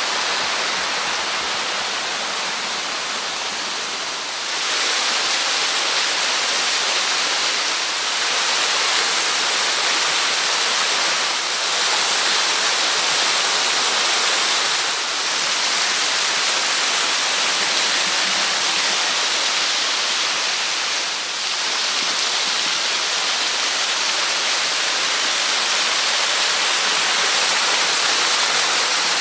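Steady rushing of falling water from a small waterfall and its stream, a dense even hiss that swells and eases slightly a few times.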